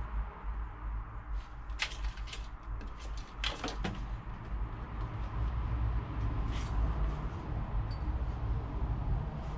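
Clicks and clatters of an Inkbird plastic temperature controller being handled and held up against a surface for mounting, a few separate knocks spread through the clip, over a steady low rumble.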